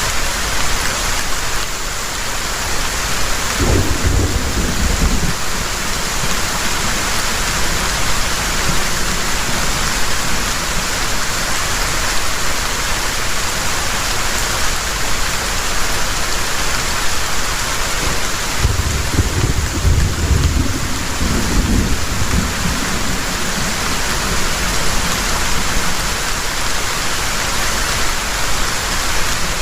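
Heavy rain falling steadily, with two low rumbles of thunder: a short one about four seconds in and a longer one a little past the middle.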